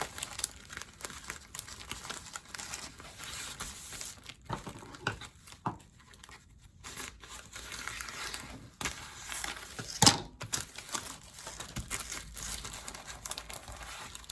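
Peel-and-stick plastic shelf liner and paper crinkling and rustling as they are pressed and folded by hand, with irregular crackles and one sharper crackle about two-thirds of the way through.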